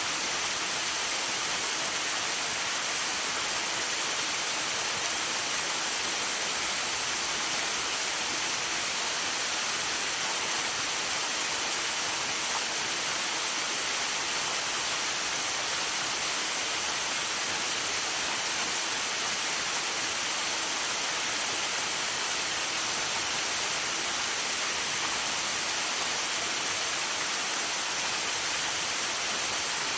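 Waterfall rushing steadily: an unbroken, even hiss of falling water with no separate splashes or knocks.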